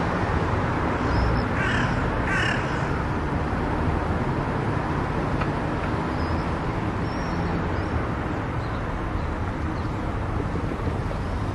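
Steady road and wind noise of a car driving on an expressway, with two short calls about two seconds in.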